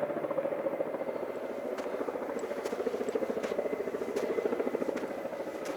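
Helicopter rotor blades beating in a rapid, steady rhythm as the helicopter flies over.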